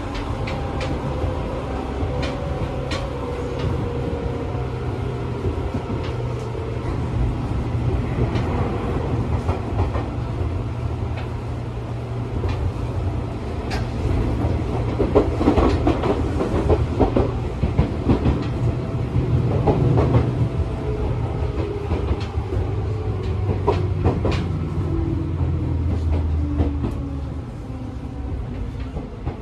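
Running sound inside a Seibu New 101 series electric train car: a steady rumble of motors and wheels, with repeated clicks of the wheels over rail joints. The rumble eases and quietens near the end as the train comes into a station.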